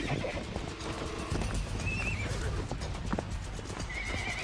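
Wild horses in a scuffle: short, high-pitched squeals about two seconds in and again near the end, over hooves thudding and stamping on the ground.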